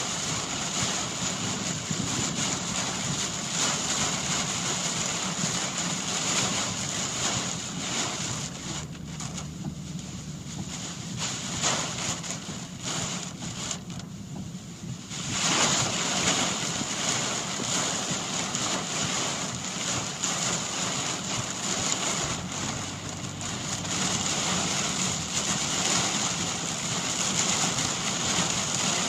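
Heavy thunderstorm rain pouring on a moving car, with wind, as a steady rushing noise. It eases for several seconds midway, then comes back suddenly at full strength.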